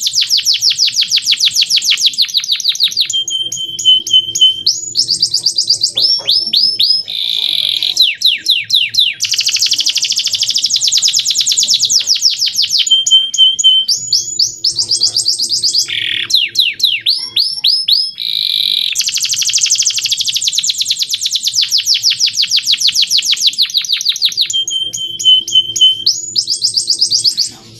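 Male domestic canary singing a long, clear song: rapid dense trills, runs of falling whistled sweeps and short held notes, the same sequence of phrases coming round again about every ten seconds. The song cuts off abruptly at the end.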